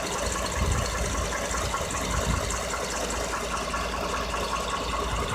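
Ford 5.0 Coyote V8 engine in a 2014 F-150 running with a steady, rapid ticking over a low rumble: the valve tick and knock the owner is showing on a truck with only 6,800 miles.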